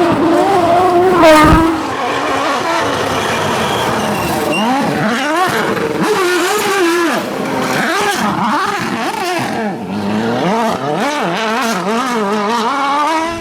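Rally car engine driven hard, its pitch climbing and dropping again and again through gear changes and lifts, with a sharp bang about a second and a half in.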